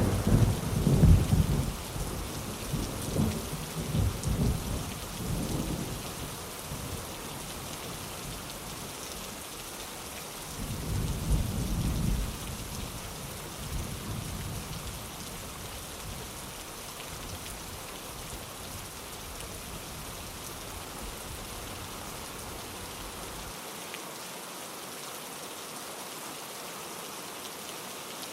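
Steady rain hiss with rolling thunder: a low rumble fading away over the first several seconds, and another brief rumble about eleven seconds in.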